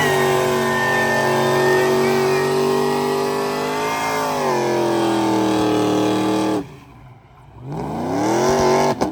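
Car engine revved up and held at high revs for about six and a half seconds, sagging briefly about four seconds in, then let off suddenly. After about a second's lull it revs up again, climbing steadily until it is let off near the end.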